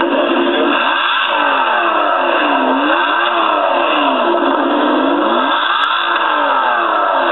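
Ferrari 612 Scaglietti's V12 being revved repeatedly while standing. The engine note climbs and falls back several times.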